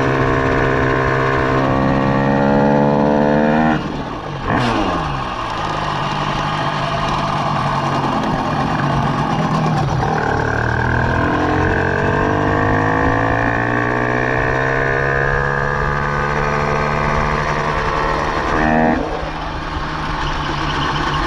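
Minarelli vertical single-cylinder two-stroke engine on a motorized bicycle revving. Its pitch climbs, drops sharply about four seconds in, climbs again for several seconds, and falls back near the end.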